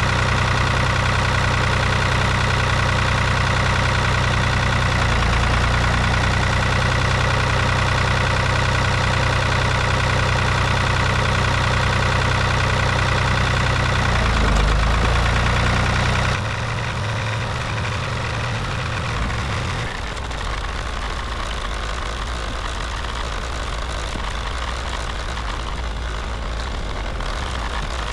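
A motor vehicle engine running steadily. About two-thirds of the way through, the sound drops in level and changes character.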